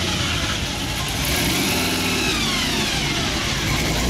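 Engine of a 1950s Chevrolet two-door gasser driving slowly past. Its note falls away in a long downward glide from about a second in.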